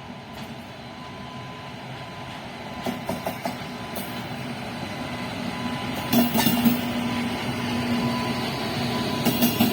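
Train approaching and growing steadily louder, with groups of sharp clicks from the wheels passing over rail joints. A steady low hum sets in about two-thirds of the way through.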